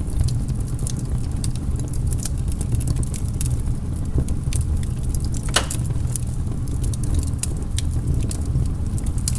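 Wood fire crackling in a fireplace: a steady low rumble of the flames with frequent small snaps and a louder pop about halfway through.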